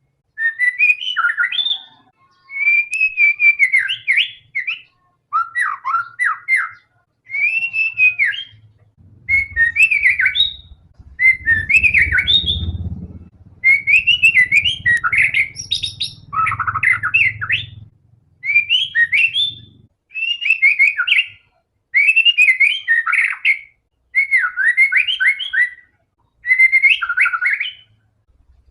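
White-rumped shama (murai batu) singing in full, energetic song: short, rapid phrases of varied whistles and trills, about one phrase every two seconds. A low rumble runs under the song through the middle.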